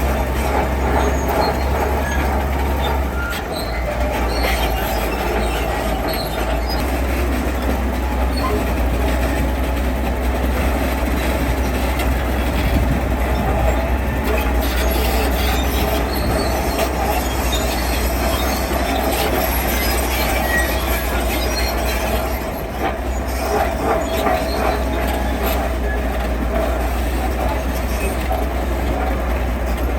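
Heavy diesel construction machinery running steadily, with scattered metallic clanks and knocks.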